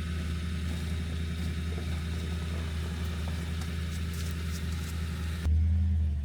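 Truck engine running steadily with a low hum. About five and a half seconds in, the sound changes abruptly to a louder, deeper engine rumble.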